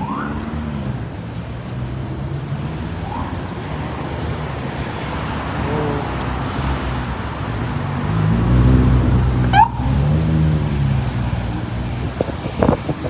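Street traffic: motor vehicles passing with engine hum that rises and falls in pitch, the loudest pass about two-thirds of the way through. A few brief high rising chirps sound now and then.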